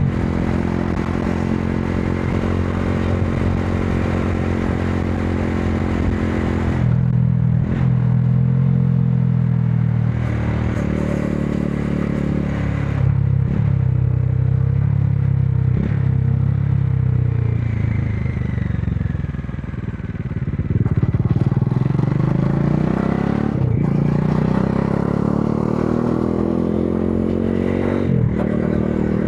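Modenas Dominar 400's single-cylinder engine running under way in traffic. Its pitch drops as it slows to a low point about two-thirds of the way through, then climbs steadily as the bike accelerates, with a few short knocks along the way.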